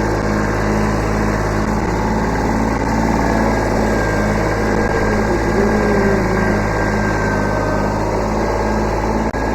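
Kubota B7100 subcompact tractor's three-cylinder diesel engine running steadily, with a faint whine that rises and falls about halfway through.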